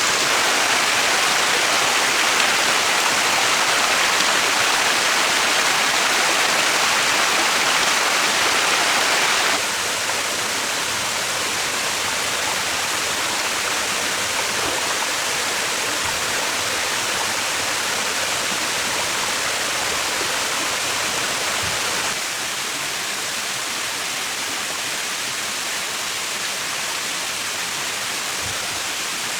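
Steady rushing water, a dense even noise that drops abruptly in level about ten seconds in and again about twenty-two seconds in.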